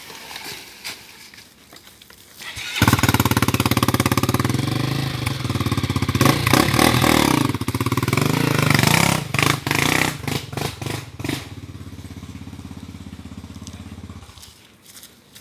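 Single-cylinder four-stroke trail motorcycle engine coming in abruptly about three seconds in, revved hard up and down for several seconds, then settling to a steady lower run before cutting off shortly before the end.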